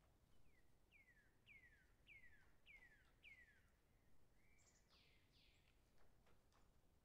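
Faint bird calls under near-silent room tone: a run of about six quick falling chirps, then a short flat note and a couple of harsher calls.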